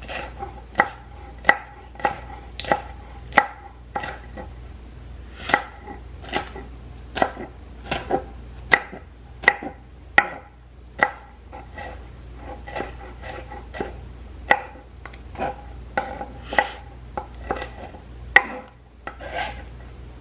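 Kitchen knife dicing vegetables on a cutting board: a long run of sharp chops, roughly one to two a second, each with a short ring.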